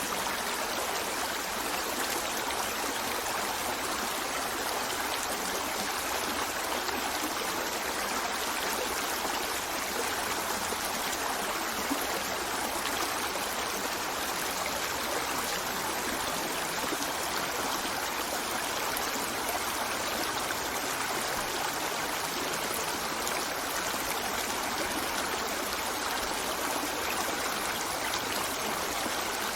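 A stream running steadily: an even, unbroken wash of flowing water that holds the same level throughout.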